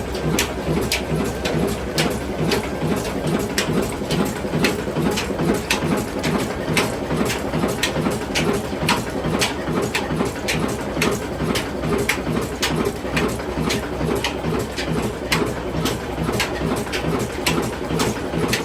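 Ruston Hornsby diesel oil engine running steadily after a cold start: an even, rhythmic chugging with sharp ticks about twice a second.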